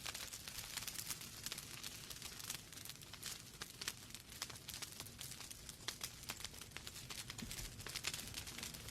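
Wood fire crackling in a fireplace: rapid, irregular snaps and pops of burning logs over a soft steady hiss.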